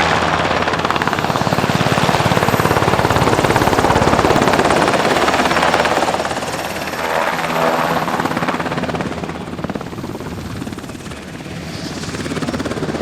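Military helicopter departing in a backwards 'Hollywood takeoff', its main rotor beating rapidly over the whine of its turbine. It is loud through the first half, fades about eleven seconds in, then grows again near the end.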